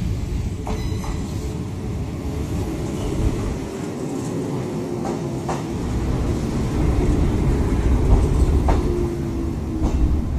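Izuhakone Railway 7000 series electric train running past along the platform: a steady rumble of wheels on rail with clacks as the wheels cross rail joints, and a faint whine joining in over the last few seconds.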